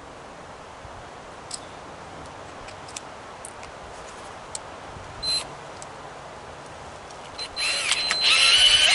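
A few light clicks and knocks of tools being handled, then near the end a power tool starts up and runs loudly, its whine rising in pitch as it spins up.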